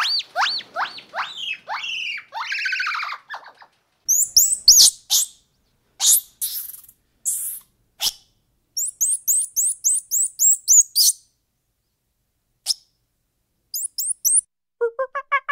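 A gibbon's whooping call, a quick run of hoots each sliding upward in pitch, lasting about three seconds. Then a squirrel monkey's high, sharp chirps and twitters come in short bursts with pauses between them. A few faint clicks follow, and in the last second a lower, rapidly pulsing call begins.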